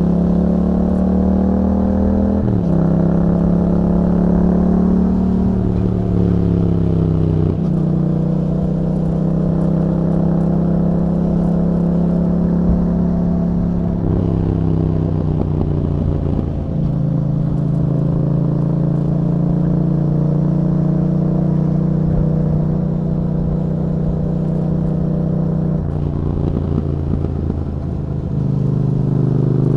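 2021 Yamaha MT-07's 689 cc parallel-twin running through an Akrapovic exhaust fitted with a dB killer, ridden on the road. The engine note climbs and drops in pitch several times as the rider works the throttle and gears.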